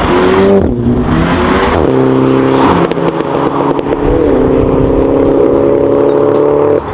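MINI's turbocharged four-cylinder engine heard through a Quicksilver sport exhaust, running hard under load. The pitch dips and climbs a few times, then holds steady. It cuts off sharply near the end.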